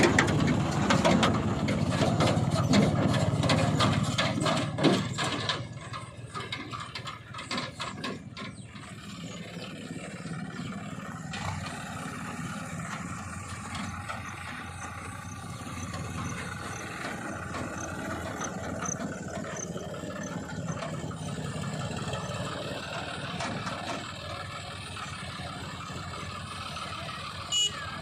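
Heavy diesel machinery engine running: loud for the first few seconds, then dropping to a steadier, lower level, with scattered knocks and clatter around five to nine seconds in.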